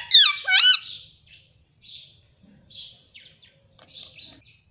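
Pet ringneck parrot calling: a few loud, sharply gliding squawks in the first second, then softer scratchy chirps about once a second.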